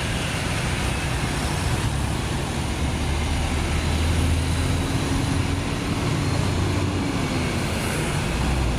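Road traffic with heavy diesel vehicles running, a steady low engine drone under general traffic noise, and a faint held whine in the middle that dips near its end.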